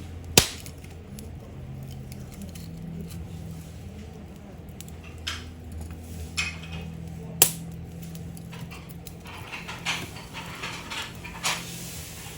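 A few sharp cracks or knocks, the loudest about half a second in and about seven seconds in, with smaller ones near the end, over a low steady hum.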